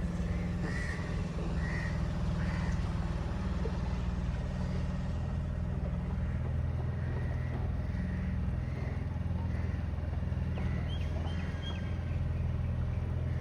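Boat engine running steadily with a low, even hum. Crows caw a few times over it, about once a second near the start.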